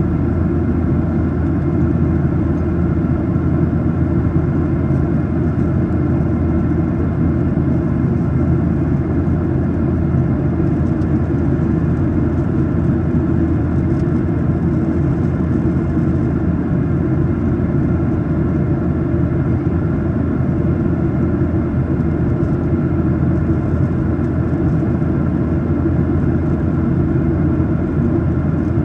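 Steady cabin drone of a Boeing 737-800 in flight: a constant low rumble of airflow and its CFM56-7B engines, with a few faint steady tones higher up.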